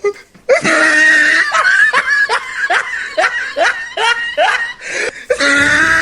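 Hearty human laughter: a run of short 'ha' bursts, two or three a second, each falling in pitch, starting about half a second in. Near the end it turns into a longer drawn-out laughing sound.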